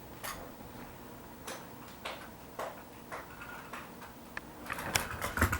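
Scattered light clicks and taps of small hard objects being handled, with a quicker run of louder knocks near the end.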